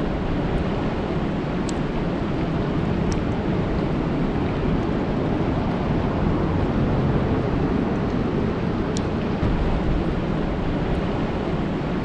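Steady rain falling on a lake's surface, an even, unbroken wash of noise with a few faint ticks scattered through it.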